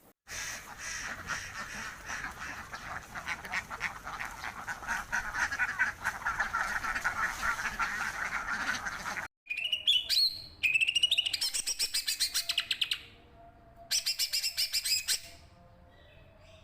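Poultry calling: a dense chorus of rapid, overlapping calls for about nine seconds. After an abrupt cut come shorter runs of quick, pulsed calls that rise in pitch, ending in a brief quiet stretch near the end.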